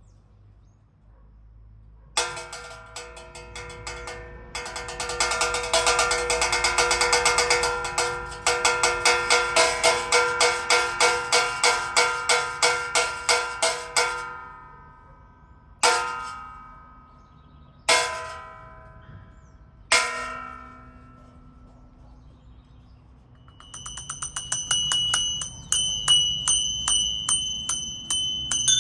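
Salta Cathedral's church bells rung as a peal for the storms. First comes a fast run of strikes, about two or three a second, across several bells. Then three single strokes a couple of seconds apart, each left to ring out. Near the end a quicker run starts on higher, smaller bells.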